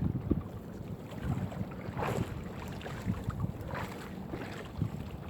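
Wind buffeting the microphone aboard a small fishing boat on choppy water, with water knocking against the hull and a couple of brief swishes about two seconds in and near four seconds.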